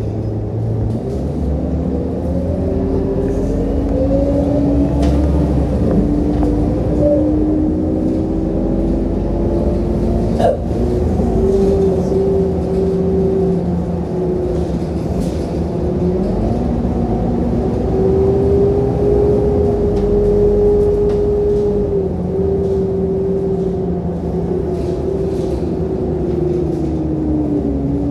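Scania K230UB city bus running, heard from inside the cabin: the engine note climbs as the bus accelerates from about a second in, then holds a steady cruising hum, easing and picking up again midway and near the end. A single sharp click about ten seconds in.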